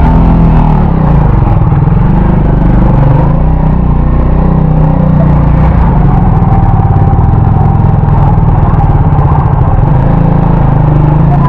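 Motorcycle engine running steadily under load while riding, loud and close.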